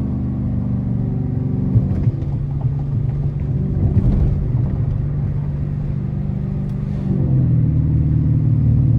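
Dodge R/T's 5.7-litre HEMI V8 running while driving: a steady low drone that shifts in pitch about two seconds in and climbs a step a little after seven seconds.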